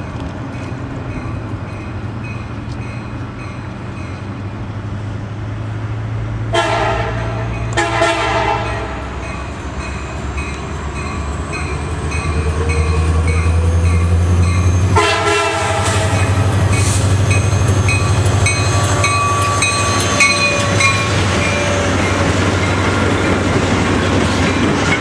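CSX freight train led by an SD70M diesel locomotive approaching and passing, sounding its horn in two short blasts about six and a half and eight seconds in, then again about fifteen seconds in. The locomotive's engine drone grows louder through the middle, with the rail cars clattering over the track after it.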